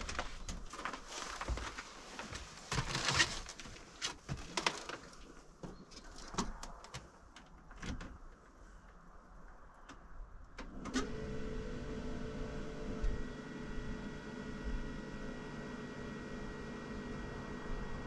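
Scattered clicks and knocks, then about eleven seconds in the Land Rover Defender TD5's five-cylinder turbodiesel starts suddenly from cold at about −15 °C and settles into a steady idle.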